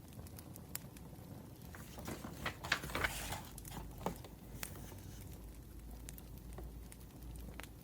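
Burning firewood crackling with scattered sharp pops. From about two to four and a half seconds in there is a denser stretch of rustling and clicks.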